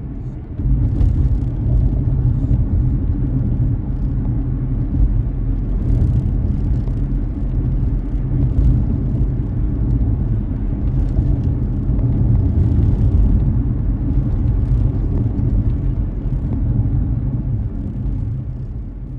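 Car driving, heard from inside the cabin: a steady low rumble of road and engine noise, with faint higher hiss now and then, fading over the last couple of seconds.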